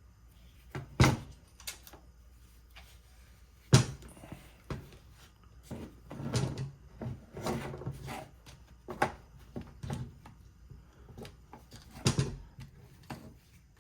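Irregular clicks, knocks and rattles of a Bosch Bulldog Extreme hammer drill's housing and internal parts being handled and fitted during reassembly, with two sharp knocks, one about a second in and one near four seconds in.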